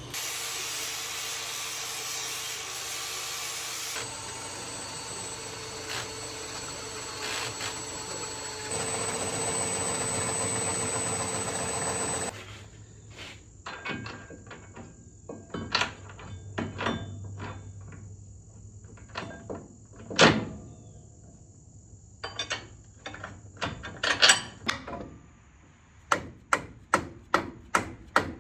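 Tool work on a pickup's suspension: a power tool runs with a steady whine for about twelve seconds, then stops. Separate metal clicks and hammer knocks follow, and a quick, regular run of clicks near the end.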